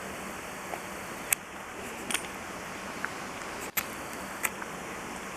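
Steady background hiss with a few short, sharp clicks from handling the camera while zooming.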